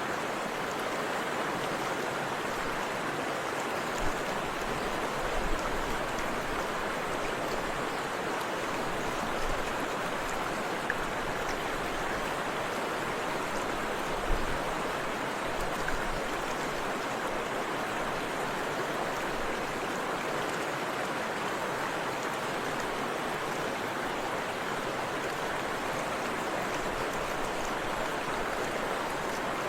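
Forest river water flowing and splashing over rocks, a steady rushing sound, with a few brief low thumps from the water here and there.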